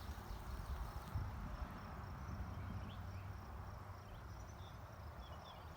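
Faint outdoor ambience: a low, steady rumble with a few quiet, short high chirps, typical of insects.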